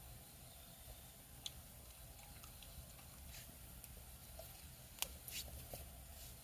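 Firewood fire crackling: a few scattered faint pops and snaps, the sharpest about five seconds in, over a quiet background.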